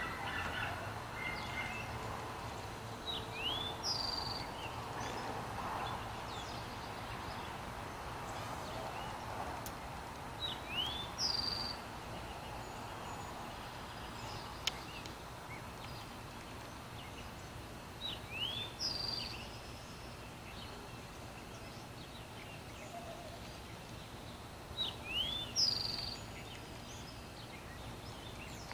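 A bird repeating a short phrase of rising whistled notes about every seven seconds, four times, over a steady outdoor background hum.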